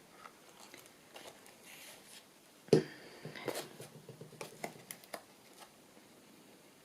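Small taps and handling sounds as paper craft pieces are moved and laid on a journal page, with one sharper knock nearly three seconds in followed by a run of light taps.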